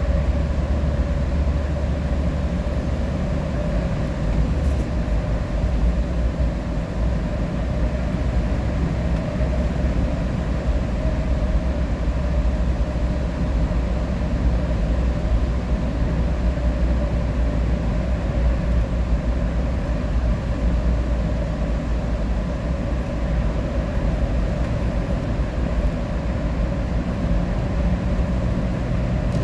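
Steady engine and road noise inside a moving vehicle's cabin at highway speed, a constant low rumble with a steady hum.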